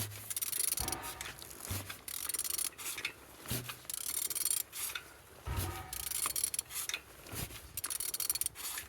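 Used Jaguar AJ16 straight-six engine being turned over by hand, with a string of short rasping, clicking bursts roughly once a second. It turns freely, the sign that the engine is not seized.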